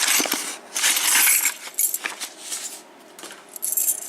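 A bunch of loose metal keys jingling and clinking together as they are handled, in several short irregular bursts.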